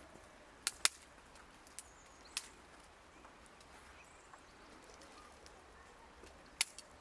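A few sharp, short clicks or knocks against a quiet background: two close together under a second in, another about two and a half seconds in, and one more near the end.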